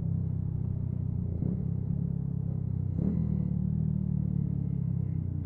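Yamaha MT-125's single-cylinder four-stroke engine running at a steady cruising note under way, with a brief blip about three seconds in.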